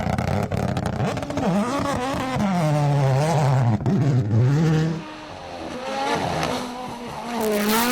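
Rally car engine revving hard, its pitch repeatedly dropping and climbing through gear changes. The engine fades about five seconds in, then a second rising engine comes in near the end.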